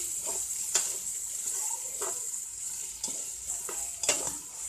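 Chicken, onions and ginger-garlic paste sizzling in oil in a large pot while being stirred, with a steady frying hiss and about five knocks and scrapes of the spoon against the pot. The paste is being fried to cook off its raw taste.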